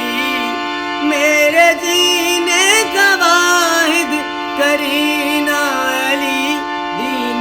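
A solo singer chanting a devotional qasida in long, ornamented melodic phrases over a steady held drone.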